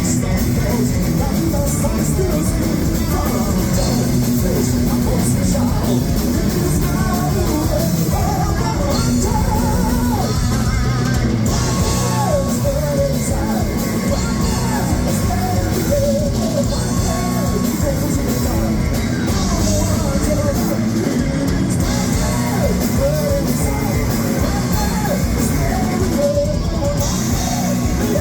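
A heavy metal band playing live, loud and continuous: distorted electric guitars, bass and drum kit, with a lead vocalist singing and yelling over them.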